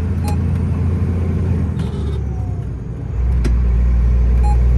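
Heavy truck's diesel engine heard from inside the cab. It eases off for a moment about two to three seconds in, then comes back deeper and louder, as with a gear change while the truck pulls under load. A few light clicks sound over it.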